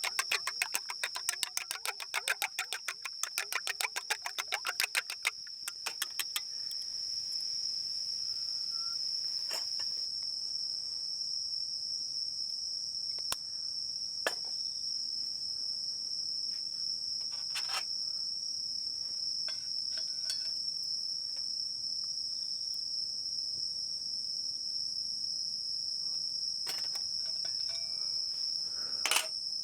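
Insect chorus: a steady high-pitched drone throughout, with a fast pulsing insect call that stops about five seconds in. A few sharp knocks sound here and there.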